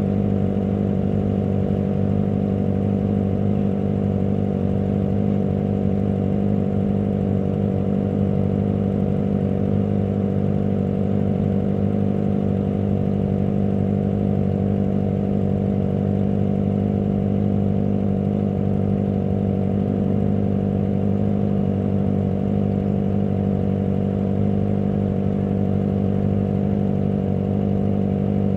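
Kawasaki ZX25R's 249 cc inline-four engine running at one steady speed throughout, with no revving.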